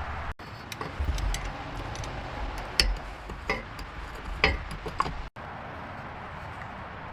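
A scattering of sharp taps and clinks over a steady background hiss, the loudest two about three and four and a half seconds in.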